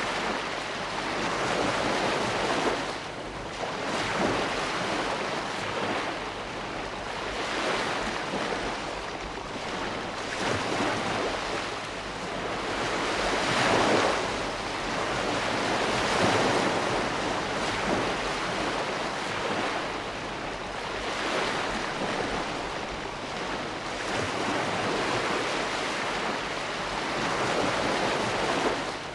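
Ocean waves breaking and washing in continuously, the surf swelling and easing every few seconds.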